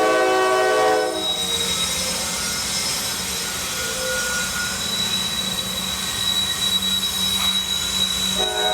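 Norfolk Southern freight train's locomotive air horn sounding a chord that cuts off about a second in, then the train rolling past with a steady high wheel squeal. The horn sounds again near the end.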